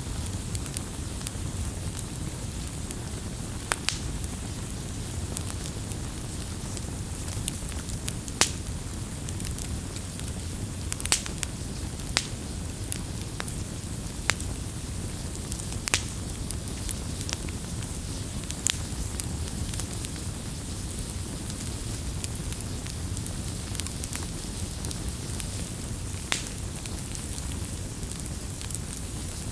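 Wood bonfire burning: a steady low rustle with sharp crackles and pops at irregular intervals, a few seconds apart.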